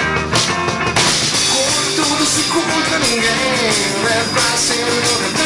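Loud rock music: a full band with distorted guitars and drum kit, with a gliding lead line over it.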